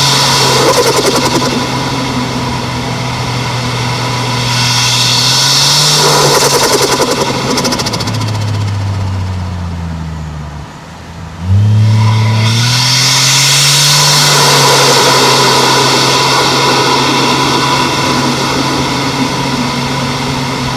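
Toyota 1JZ-GTE turbocharged 2.5-litre straight-six driving a car on the road, with a steady engine note and a hiss above it. From about eight seconds in the pitch falls as the throttle comes off, dipping to its quietest around ten seconds. About eleven and a half seconds in it picks up sharply and rises again under acceleration.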